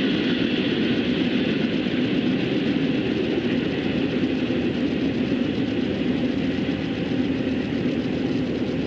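A train passing close by: a steady, loud rumble of steel wheels rolling on the rails.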